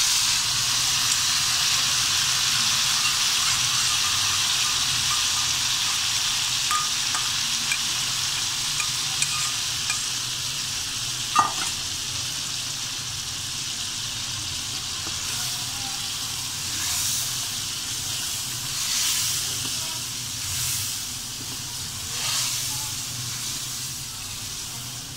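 Marinated chicken pieces sizzling hard in hot ghee and browned onions in a metal karahi, the sizzle slowly dying down. There is a single sharp click about halfway through, and in the second half there are a few ladle strokes stirring and scraping the pan.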